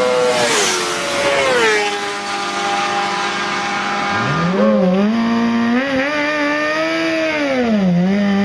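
An engine revving, its pitch sliding down early on, then climbing from low about four seconds in and rising and falling through the rest.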